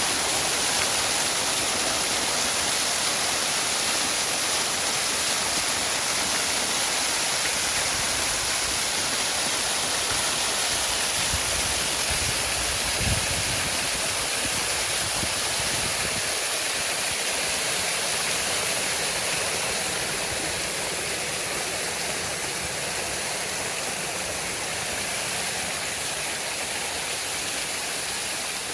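Waterfall: a steady rush of falling water, with a few brief low thumps about halfway through.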